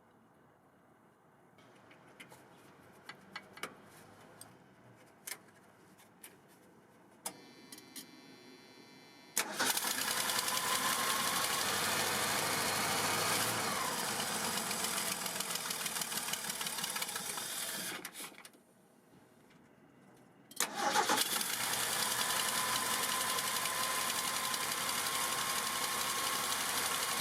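1978 Ford F150's engine at its first start after long disuse: a few light clicks, a couple of seconds of cranking, then it catches and runs for about nine seconds before stopping. After a short pause it is started again and keeps running.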